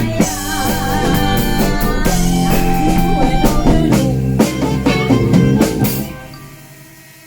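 Blues band playing, with electric guitar and drum kit; the music stops about six seconds in, as the song ends.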